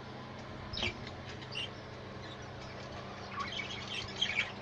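Budgerigars chirping, a few scattered chirps at first and busier, overlapping chirping from about three seconds in, over a steady low hum.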